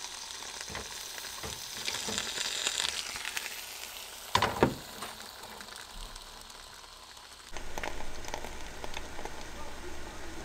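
Bacon and potato pancake batter sizzling and frying in an oiled stovetop waffle pan, a steady high hiss. A single sharp knock of the metal pan comes near the middle, and a low steady rumble joins in about three-quarters through.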